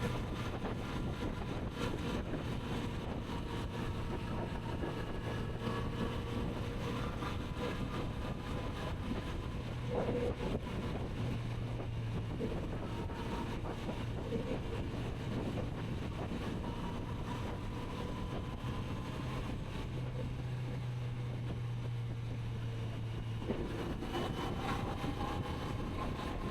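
Kawasaki Z900RS inline-four engine running at a steady cruise, its pitch drifting slightly up and down, with wind noise on the microphone.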